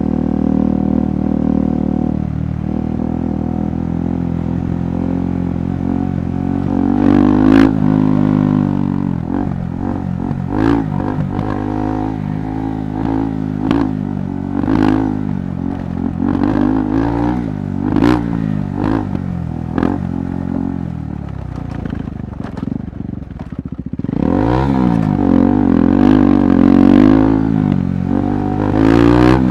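KTM 390 Adventure Rally's single-cylinder engine under way off-road: steady at first, then rising and falling in repeated short bursts of throttle with sharp knocks and clatter from the rough ground, then climbing to louder, higher revs near the end.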